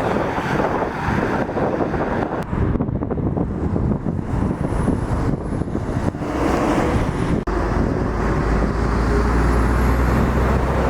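Heavy lorry traffic: truck diesel engines running and passing. The sound changes abruptly about seven seconds in to a steady, low engine drone.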